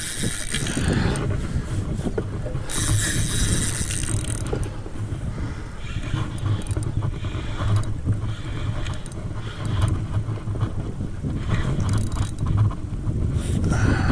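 Wind buffeting the microphone over water noise, a steady uneven low rumble, with two short bursts of hiss in the first few seconds.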